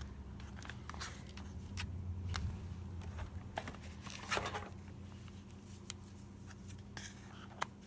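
Faint handling noises from working on a hand-bound journal: scattered small clicks and taps with some soft rustling.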